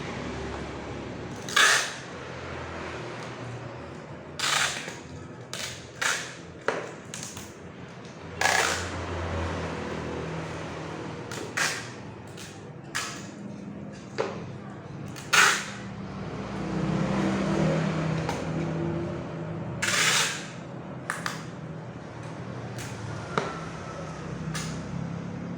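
About fifteen sharp, irregular knocks of nails being driven into a wooden packing crate, some ringing briefly, over a steady low rumble.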